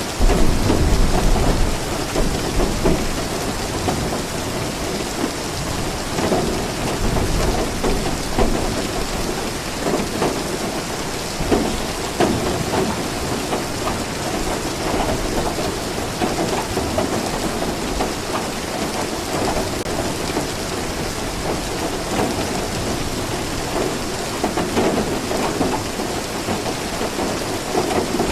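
Steady rain falling, with a low rumble of thunder in the first couple of seconds.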